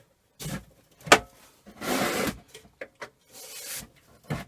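Screwdriver working at stubborn screws in the aluminium casing of an old hood hair dryer: short scraping rubs with a few sharp metallic clicks, the longest scrape about two seconds in.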